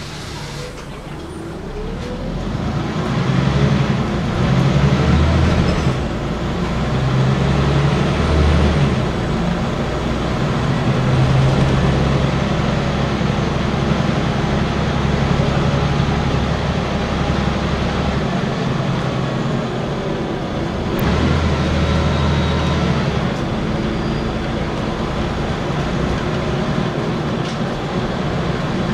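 Scania N94UB single-decker bus's diesel engine pulling away and running under load, its note rising and then dropping at each gear change, over steady road noise.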